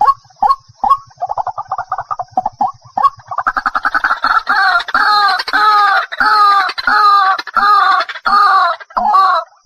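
White-breasted waterhen calling: short spaced notes and a fast rattling trill, then from about three seconds in a loud run of repeated two-part calls, about two a second.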